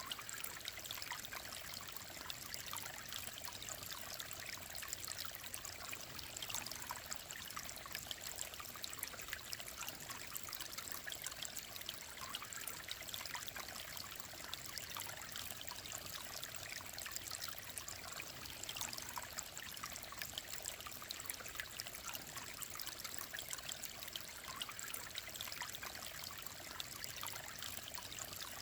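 Shallow mountain stream trickling and babbling over stones, a steady bright splashing with no pauses.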